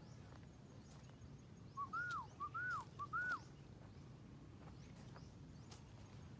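A bird calling: three quick whistled notes about half a second apart, each a short pickup followed by a note that rises and then falls away.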